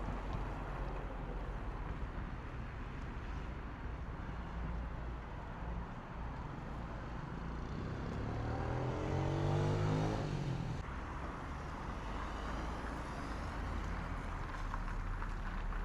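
Town street ambience with a steady low traffic hum. About eight seconds in, a motor vehicle's engine rises in pitch as it speeds up nearby, becomes the loudest sound near ten seconds, then breaks off suddenly.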